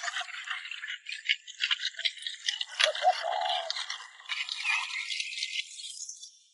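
A rapid, irregular rattling clatter of light clicks, with a brief low pitched sound about three seconds in.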